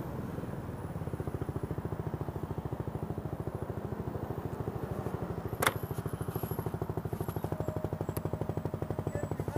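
Motorcycle engine idling with an even, rapid pulsing beat, and one sharp click about halfway through.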